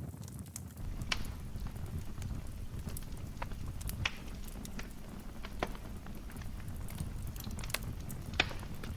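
Wood fire burning in a fireplace: a low steady rumble of flames with sharp crackles and pops every second or two, the loudest near the end.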